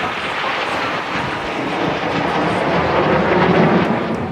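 Jet aircraft flying past at an air show: a loud, even roar that swells to a peak near the end, then begins to fade.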